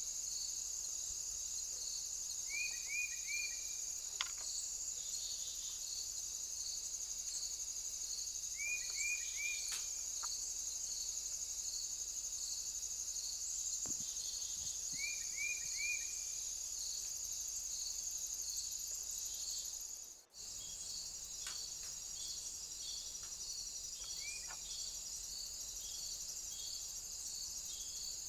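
Crickets chirping in a steady, high-pitched insect chorus, with regular pulses. A bird gives a short call of three quick falling notes three times, and a single note near the end. The sound cuts out for a moment about two thirds of the way through.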